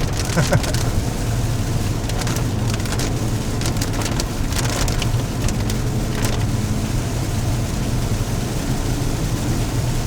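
Inside a car driving in the rain: a steady low engine and road drone, with rain on the car heard as scattered ticks.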